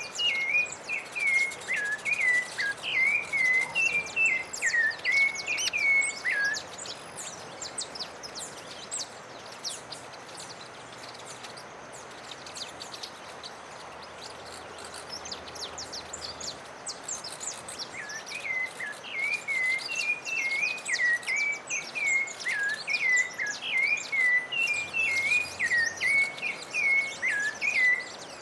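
A songbird singing a fast string of quick, slurred whistled notes in two bouts, the first about six seconds long and the second starting about two-thirds of the way in, with faint high chirps of other birds throughout.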